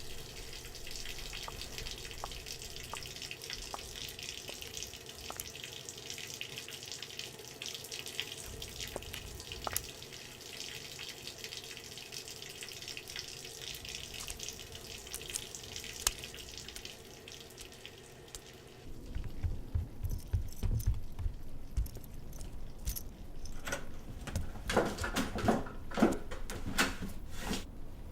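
Steady hiss of running water with scattered drips. About two-thirds of the way through it gives way to low thumps, then a quick run of knocks near the end.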